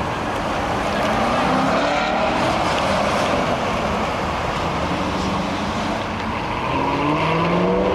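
Corvette V8 engines pulling away in a line, a steady engine rumble with two cars accelerating, their pitch rising, once about two seconds in and again near the end.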